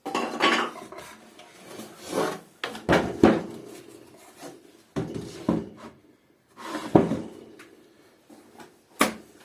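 Pieces of wood being handled and worked: a string of separate wooden knocks and scrapes, one every second or two.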